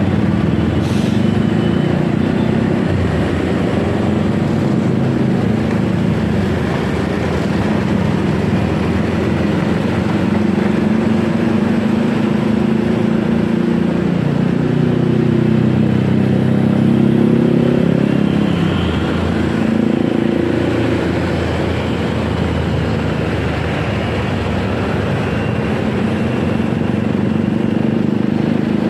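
Motorcycle engine running on the move, its pitch rising and falling several times as it speeds up and slows, over steady road and wind noise with traffic around.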